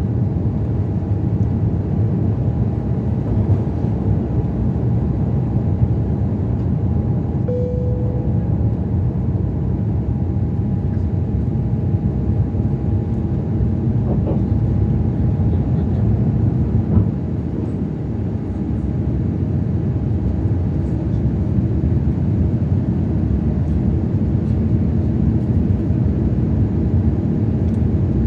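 Airbus A350-900 with Rolls-Royce Trent XWB engines during takeoff: a steady, loud low rumble with a faint steady whine above it. A short tone sounds once, about eight seconds in.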